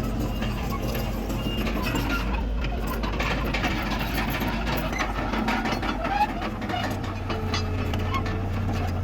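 Diesel engine of a Komatsu D31PX bulldozer running steadily under work, with scattered knocks and clanks from the machine and the dirt it moves. The engine note shifts to a deeper, steadier hum about seven seconds in.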